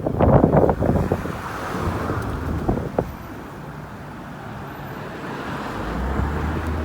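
Yamaha RZ250's swapped-in RZ350 two-stroke parallel-twin engine, loud quick throttle blips in the first second that die away into quieter running, with wind on the microphone.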